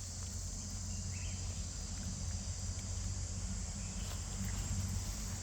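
Insects keep up a steady, high-pitched drone over a low background rumble, with one faint short chirp about a second in.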